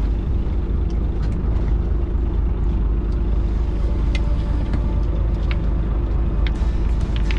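Fishing boat's engine running with a steady low rumble, a few light clicks and taps sounding over it.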